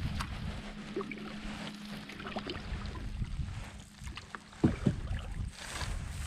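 Canoe being paddled: water sloshing and lapping, with scattered small knocks against the hull and one sharper knock near the end, over a low rumble of wind.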